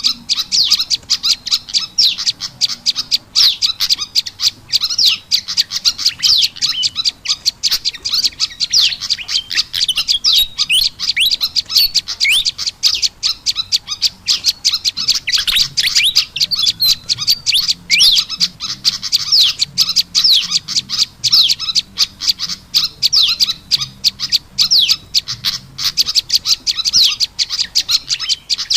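Bird-lure recording of small songbirds, prenjak lumut mixed with kipasan (fantail) calls. It is a dense, unbroken stream of rapid, high chirps and quick pitch sweeps with no pauses.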